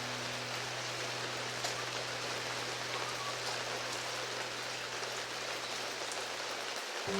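Steady rain falling, a continuous rain ambience, with a low steady hum beneath it that cuts off just before the end.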